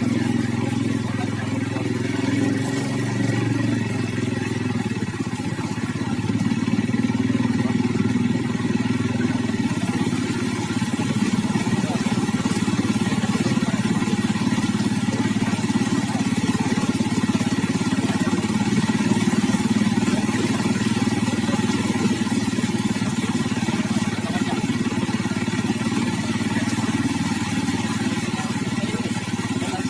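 A vehicle engine running steadily while on the move, with a constant low drone throughout.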